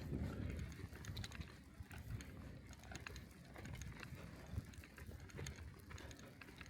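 Bicycle ridden over a snowy street: a low, faint rumble of tyres and wind on the microphone, with scattered light clicks and ticks throughout.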